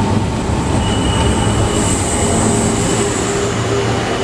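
Taiwan Railways electric commuter train running on curved track: a steady rumble of the wheels on the rails, with a high squeal from the wheels on the curve that sets in about a second in and grows shriller midway.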